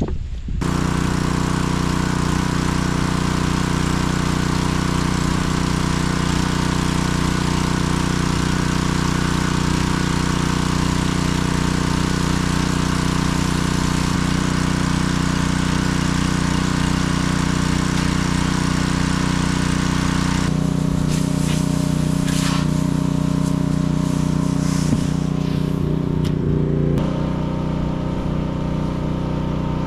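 Diesel engine running steadily at an even speed. About two-thirds of the way through, the hiss above it drops away and a few light knocks are heard.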